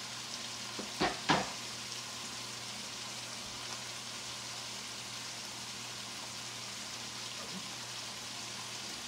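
Shredded cabbage sizzling steadily in grease in a frying pan, with two brief clicks about a second in and a low steady hum underneath.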